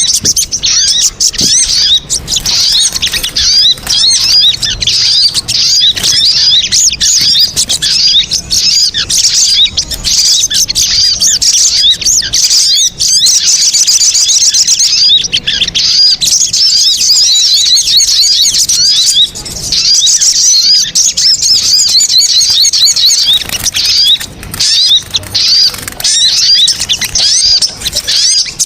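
Sogon bird calls: loud, high-pitched chirping and quick trills in a dense, unbroken stream, played as a lure call to draw sogon birds in.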